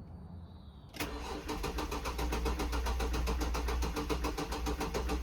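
Jaguar S-Type's starter motor cranking the engine, which turns over with a fast, even rhythm but does not fire, after years laid up. The cranking starts suddenly about a second in.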